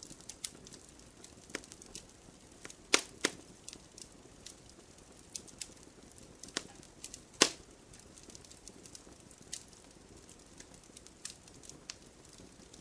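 Fireplace fire crackling: irregular sharp pops and snaps over a soft, steady low hiss of flame. The loudest pops come as two close together about three seconds in and a single one about seven seconds in.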